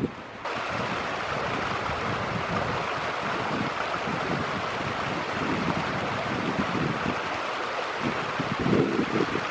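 Steady rushing of river water that starts abruptly about half a second in, with wind buffeting the microphone in low thumps near the end.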